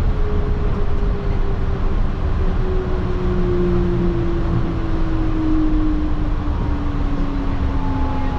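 Yurikamome rubber-tyred automated guideway train running, heard from inside the car: a steady low rumble with a motor whine that falls slowly in pitch as the train slows for the next station.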